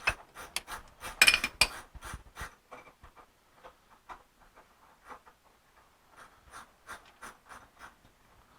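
A wrench clicking and scraping against a large plug on an 8.2 10-bolt differential: a run of short metallic clicks, loudest in the first two seconds, then fainter, sparser ticks.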